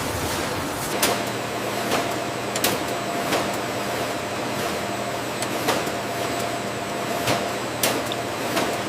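Food-processing factory machinery running with a steady hum, with sharp mechanical clacks at irregular intervals, roughly one a second.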